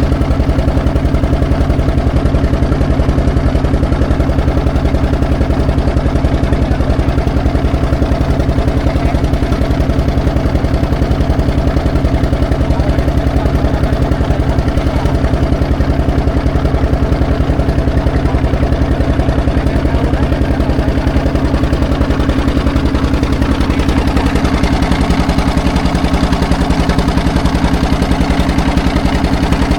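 An engine running steadily at low speed with an even, pulsing beat; its pitch rises slightly about three-quarters of the way through.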